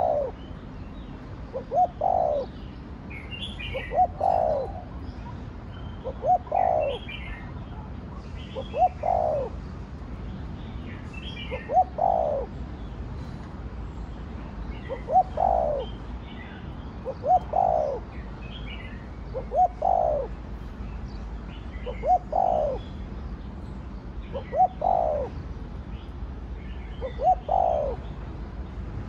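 Spotted dove cooing in the 'thổ đồng' voice, the same short call phrase repeated steadily about every two seconds. Fainter high chirps sit between the coos.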